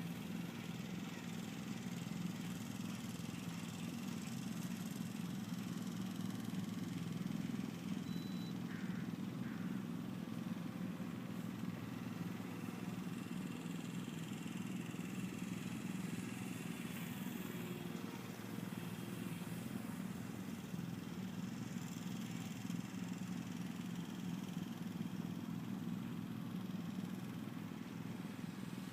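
Electric RC warbird flying, its motor and propeller droning steadily under an even outdoor noise, with no break in the sound.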